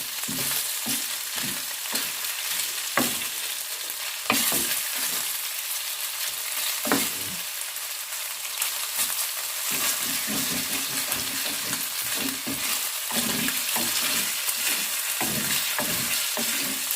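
Cubed chicken breast sizzling in hot oil in a pan on high heat, with a steady hiss and repeated short knocks and scrapes of a utensil against the pan as the pieces are turned and moved; the knocks come thicker in the second half.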